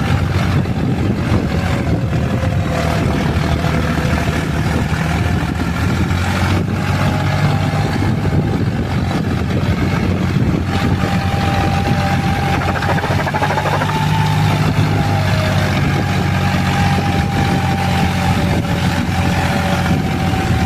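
John Deere tractor's diesel engine running steadily under way, with a steady whine above the engine note.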